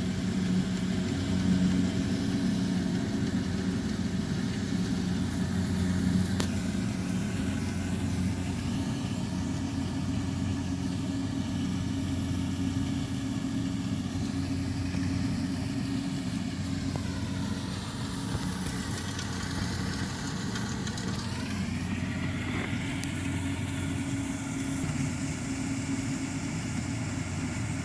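Farm machinery engines running steadily at a low, even pitch. About two-thirds of the way through, a higher engine note drops and then climbs again as a machine changes speed.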